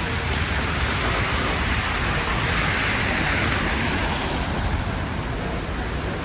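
Street traffic: a car passes, swelling about three seconds in and fading away, its tyres hissing on wet, slushy road, over a steady low traffic rumble.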